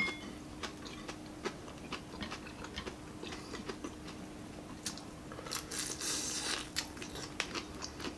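Close-miked eating sounds of crispy fried chicken: chewing and small wet mouth clicks, with a longer crunchy stretch a little past halfway. A faint steady hum runs underneath.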